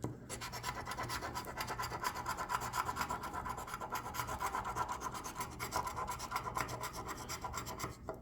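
A coin or scraper rapidly scratching the latex coating off a paper lottery scratch-off ticket, in quick repeated back-and-forth strokes that stop just before the end.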